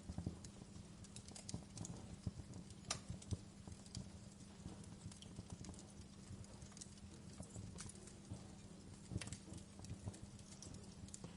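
Wood fire crackling, with irregular sharp pops and snaps over a low rumble and a faint steady hum.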